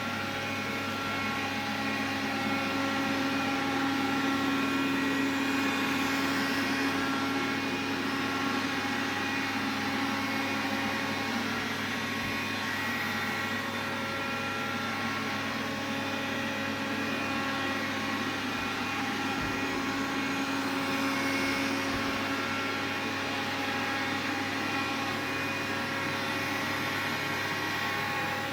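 Xiaomi vacuum cleaner running steadily: motor and airflow noise with a constant whine made of several steady tones. It swells slightly now and then. The owner regards this noise as abnormal.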